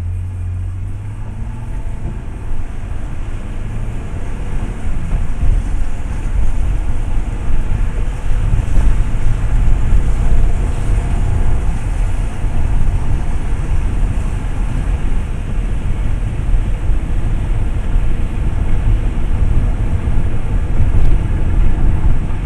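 Car driving, with a loud low rumble of road and engine noise that builds over the first several seconds and then holds.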